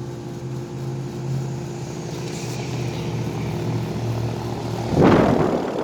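Lennox Elite 3.5-ton air conditioner condenser, fitted with a low-ambient kit, running: a steady compressor hum under the whoosh of the condenser fan. About five seconds in, a loud rush of air breaks in as the fan's really hot discharge air blows across the microphone.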